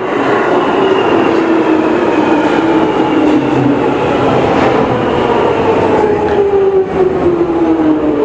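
London Underground train running, its motors whining in several tones that fall slowly in pitch, over loud rumble and rail noise.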